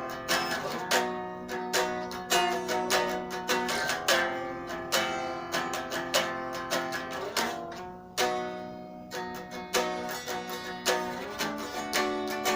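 Solo guitar played unplugged: plucked notes and chords ringing out in a slow instrumental piece.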